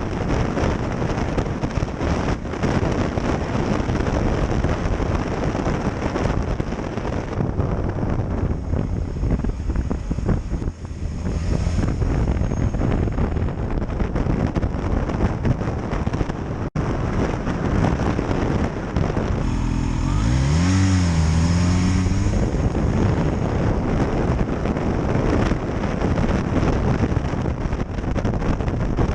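Kawasaki H2 SX SE motorcycle riding at speed, with heavy wind rush over the microphone. About two-thirds of the way through, the engine note rises, falls and rises again as the bike is revved.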